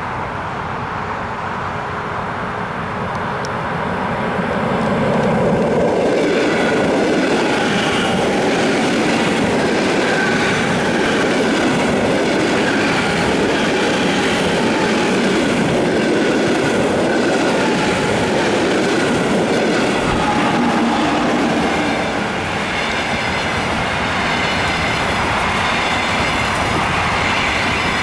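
Electric passenger train passing close by on the main line: a steady loud rush of wheels on the rails, building up about four seconds in and running on, with a brief dip in level near the end.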